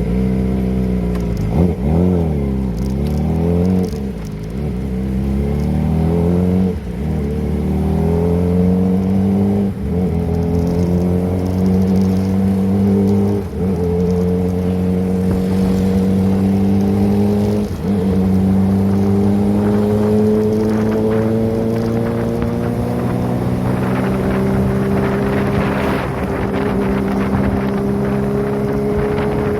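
Kawasaki ZX-25R's inline-four engine through a Prospeed aftermarket exhaust, under way. It revs up and down a few times near the start, then pulls up through the gears with four short dips at the shifts, and its pitch climbs slowly in the last gear. A rushing noise builds near the end.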